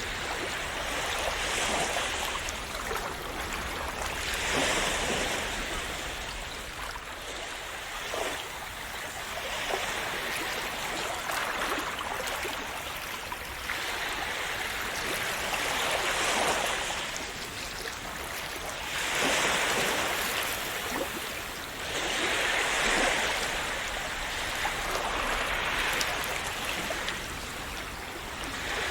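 Small sea waves washing and splashing on the shore, each wash swelling and fading every few seconds.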